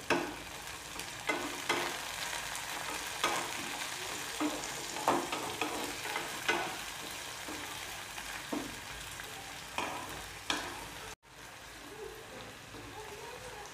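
Chopped onion, tomato and ginger-garlic paste sizzling in hot oil in a nonstick kadhai, with a spatula scraping and tapping the pan every second or two as the mixture is stirred. The sound cuts out briefly near the end and comes back as a quieter sizzle.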